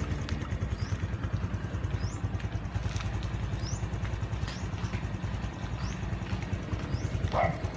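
Honda XRM 125's single-cylinder four-stroke engine idling steadily, a fast, even low exhaust pulse.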